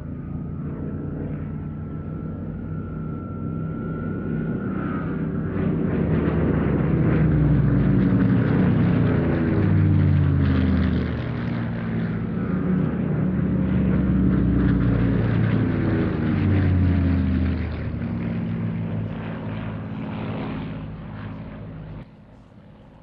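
Piston-engined propeller fighters, the Battle of Britain Memorial Flight's Spitfire and Hurricane, passing low: a droning engine sound that swells and drops in pitch as each goes by, loudest about eight and fifteen seconds in, then falling away a second before the end.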